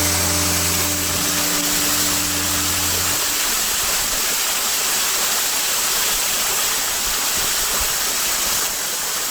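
Steady rushing roar of a waterfall. Held music tones sound underneath it and stop about three seconds in, leaving the water alone.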